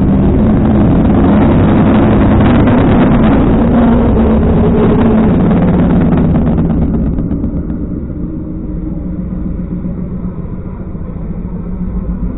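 Car engine and exhaust running hard, loud for about seven seconds, then easing off to a quieter, steady drone.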